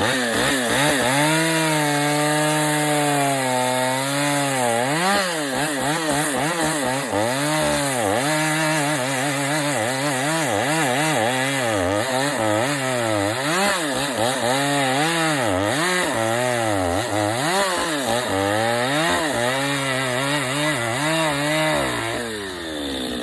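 Chainsaw cutting into a log, blocking out the back of a carved bear. The engine holds steady for the first few seconds, then its pitch rises and falls over and over as the chain bites into the wood, and it winds down about a second before the end.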